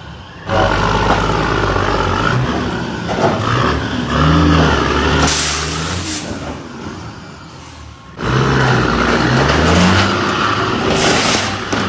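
Road vehicle sound from dash cam footage: engines running, their pitch rising and falling. The sound jumps up abruptly about half a second in and again about eight seconds in, with short hissy spells in between.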